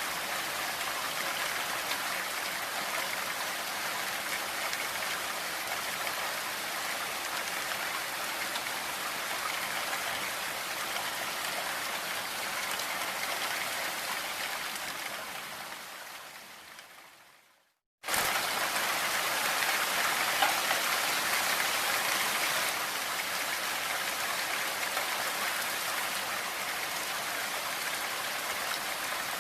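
Steady rain noise. It fades out over a few seconds to a brief silence, then cuts back in suddenly at full level, as when a looped rain recording ends and restarts.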